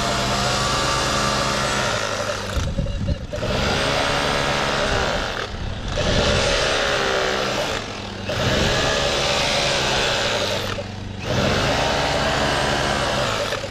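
A motorised tool runs in five bursts of about two to three seconds each, its pitch bending up and down, over the steady low hum of an engine.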